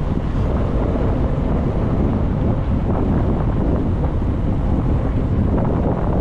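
Wind buffeting the microphone of a camera riding on a moving e-bike: a loud, steady low rumble with no let-up.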